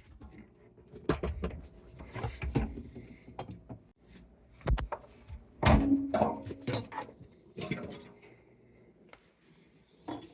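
Scattered knocks, clicks and clanks of tools and metal parts being handled while a garbage disposal is swapped out, with a louder cluster of clanks a little past halfway, one of them ringing briefly.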